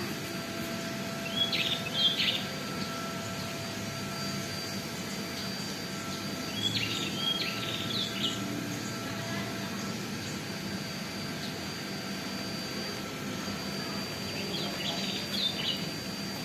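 A bird calling in three short bursts of quick, high chirping notes, several seconds apart, over steady background noise with faint constant tones.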